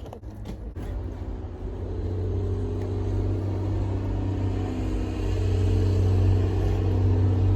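A car engine running with a steady hum that grows louder about two seconds in and again about five seconds in. A few knocks come in the first second.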